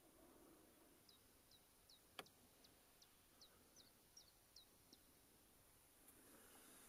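A small songbird calling faintly in a run of about ten short, falling chirps, two or three a second, over near-silent woodland. A single sharp click about two seconds in.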